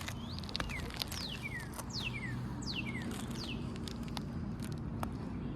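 A bird calling: a series of about five quick whistles, each sliding steeply down in pitch, in the first three and a half seconds, with scattered light clicks over a steady low background noise.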